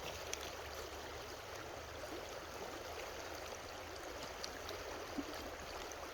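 Creek water running steadily over its bed, a constant rushing babble, with a couple of faint clicks in it.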